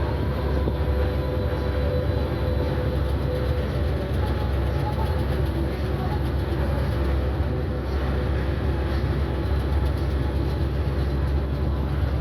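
Inside a moving bus: steady low rumble of the engine and road noise, with a faint steady whine over it.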